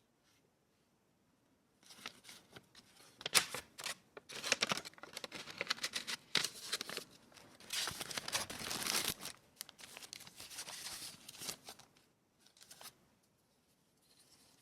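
Paper being handled: tearing and crinkling, with many sharp crackles, starting about two seconds in and dying away near the end.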